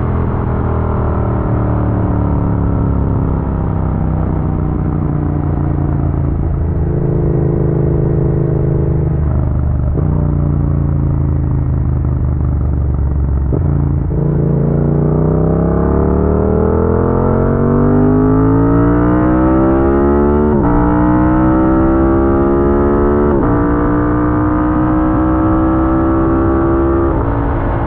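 Yamaha MT-07 parallel-twin motorcycle engine under way, slowing with falling revs and a few downshifts over the first half. It then accelerates hard from about halfway, revs climbing and dropping at two upshifts, with steady low wind and road rumble underneath.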